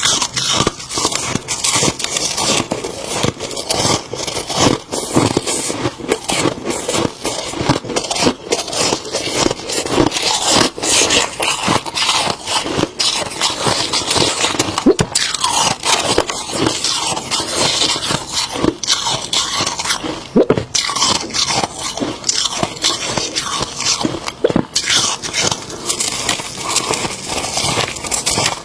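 Freezer frost being bitten and chewed close to the microphone: dense, crisp, irregular crunching that keeps up throughout.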